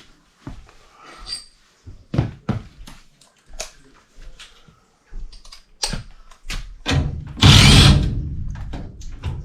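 Scattered knocks and clicks of hand tools and sheet metal being handled, then a louder, longer rasping noise starting about seven and a half seconds in.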